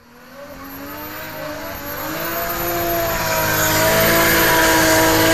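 Drift car engine held at high revs during a burnout, its note wavering slightly over the hiss of spinning tyres. It fades in from silence over the first couple of seconds.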